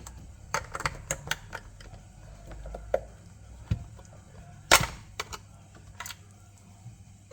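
LEGO plastic pieces clicking and knocking as the boat is handled: a scattered series of sharp clicks, the loudest a little before five seconds in.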